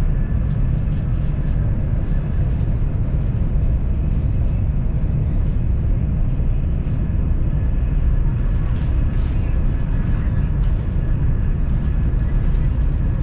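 Cabin noise of a Jakarta–Bandung high-speed train running at speed: a steady, even low rumble with faint small ticks and rattles over it.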